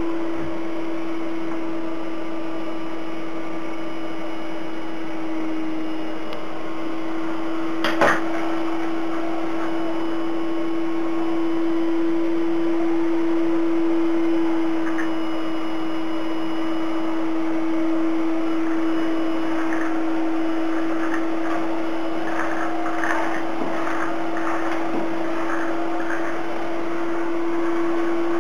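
Vacuum cleaner running steadily with a constant motor hum. A sharp knock comes about eight seconds in, and there are light clicks and rattles near the end.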